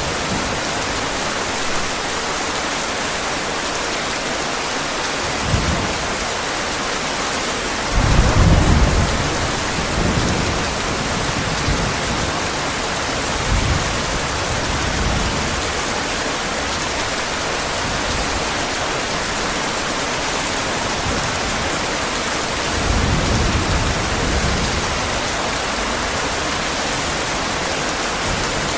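Heavy rain falling steadily, with several low rolls of thunder rising out of it, the loudest about eight seconds in and another around twenty-three seconds in.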